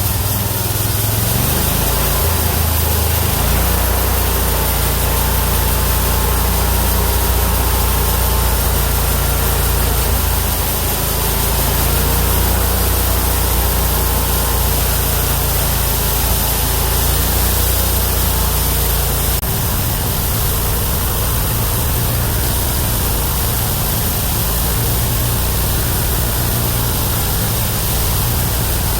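The 31 hp engine of a homemade bandsaw mill running steadily under load while the carbide-tipped band blade saws through a Chinese toon (Cedrela sinensis) log. The engine's low hum shifts in character about two-thirds of the way through.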